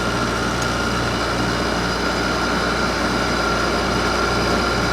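2004 Hampton Bay by LG 8,000 BTU window air conditioner running on medium fan: a steady hum and whir with a thin, constant whine. Its fan motor's bearings are already going, as the owner judges.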